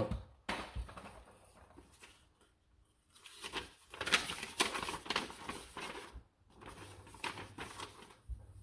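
Hands handling a plastic toy dart blaster and its dart clips: scattered clicks early, then a few seconds of clattering and rustling of plastic parts from about three seconds in.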